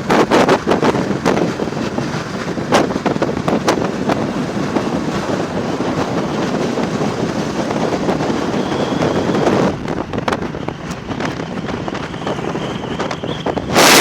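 Wind buffeting the microphone on a moving motorcycle, in gusts, with a Royal Enfield Classic 350's single-cylinder engine running underneath.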